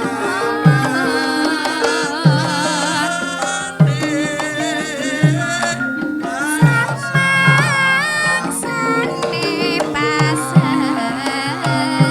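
Javanese gamelan music: bronze metallophones and gongs playing held pitched notes over a deep drum stroke about every one and a half seconds, with a wavering melody line above.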